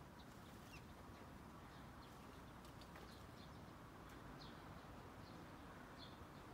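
Near silence outdoors, with faint short bird chirps scattered every second or so over a low background hum.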